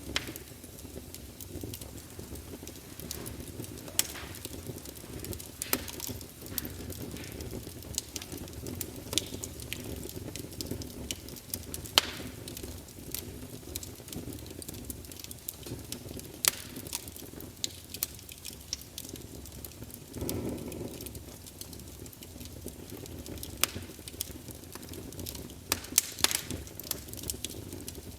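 Wood campfire burning: a steady low rumble of flames with irregular sharp crackles and pops, a brief louder surge about two-thirds of the way in, and a cluster of pops near the end.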